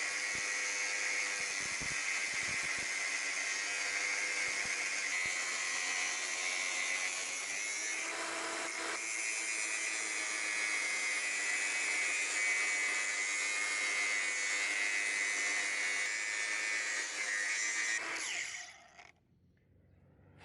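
Electric power tool running steadily with a high whine, working the metal head of a water-valve shut-off key to widen it; it winds down and stops near the end.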